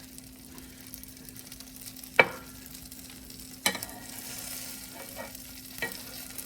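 Quesadilla frying in butter on a hot griddle, a steady sizzle. A sharp clack about two seconds in, and two smaller knocks later.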